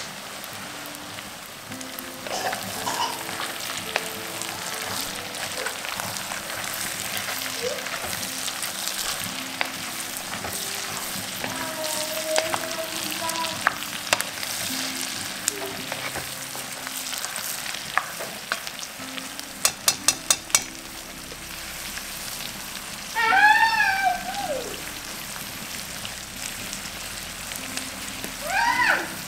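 Lamb, onions and carrots sizzling in a cast-iron pot over coals, stirred with a wooden spoon. About two-thirds through there is a quick run of clicks, then a short pitched sound that rises and falls, with a second one near the end.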